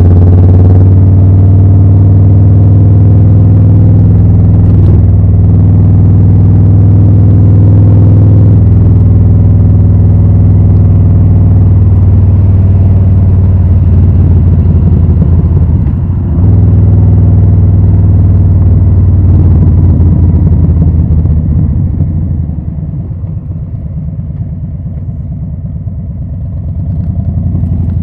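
Harley-Davidson Low Rider S V-twin with Rinehart slip-on exhausts running under load while riding, a loud steady low exhaust note. It dips briefly about sixteen seconds in, falls off quieter from about twenty-one seconds as the throttle eases, and picks up again near the end.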